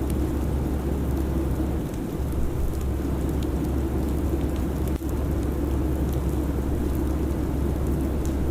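Steady airliner cabin noise in cruise: a constant low drone of engines and airflow with an even hiss over it and faint scattered ticks.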